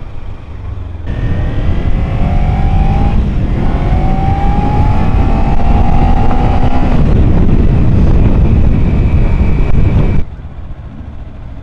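Motorcycle engine accelerating hard, its pitch climbing twice as it pulls through the revs, over heavy wind rush on the camera microphone. The sound begins abruptly about a second in and cuts off abruptly near the end.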